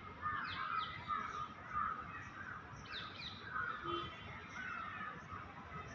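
Birds chirping and calling, a busy chatter with quick falling chirps about half a second in and again about three seconds in.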